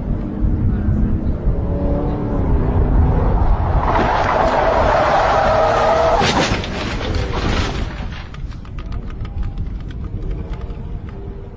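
Car engine running, then a crash: a loud noisy rush lasting about four seconds with sharp cracks in the middle, followed by scattered clicking and rattling.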